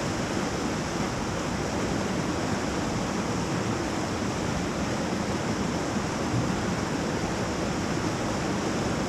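Whitewater rapid rushing steadily, an unbroken wash of moving water.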